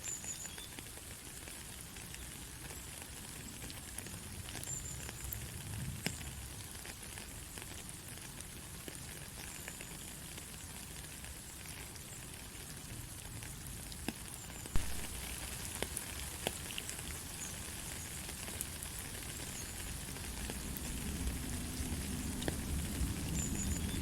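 Steady light rain: an even hiss with scattered drops ticking, one louder drop hitting about halfway through. A low rumble grows toward the end.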